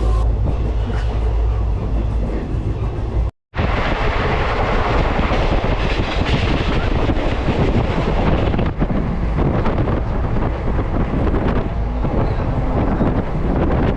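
Passenger train running along the track: a steady rush and rumble of wheels on rails, with a brief total dropout about three and a half seconds in.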